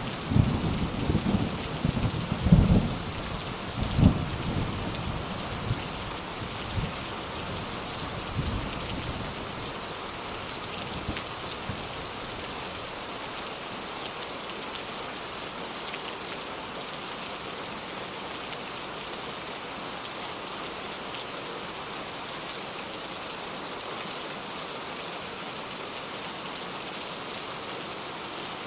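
Steady rain with thunder rumbling through the first several seconds, loudest about two and a half and four seconds in, and dying away by about ten seconds; after that only the even sound of rain remains.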